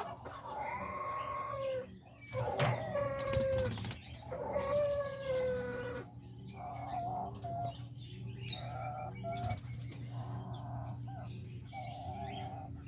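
Diamond doves cooing: long calls that slide down in pitch in the first few seconds, then shorter repeated coos, over a steady low hum.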